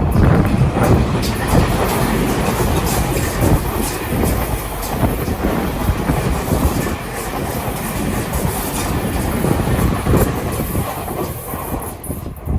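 Tobu 50050-series electric commuter train passing at speed, its wheels clattering rhythmically over the rail joints, with the run of wheel knocks easing off near the end as the last cars go by.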